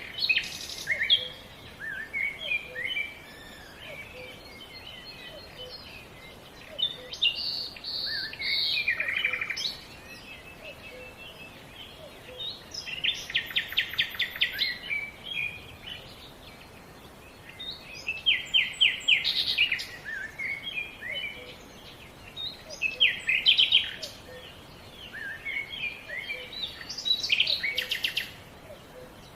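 Songbirds singing in short phrases every few seconds, several of them fast trills, over a steady outdoor background hiss.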